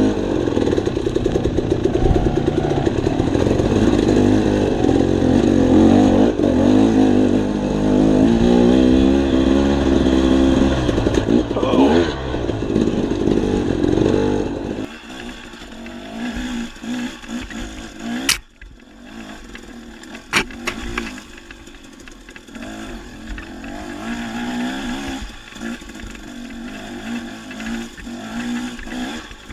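Dirt bike engine running on the trail, its pitch rising and falling with the throttle. About fifteen seconds in it drops off to a much quieter running sound, with two sharp knocks a couple of seconds apart.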